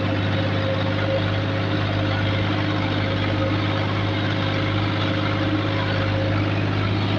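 Tractor engine running steadily at a constant speed, a low hum with no change in revs.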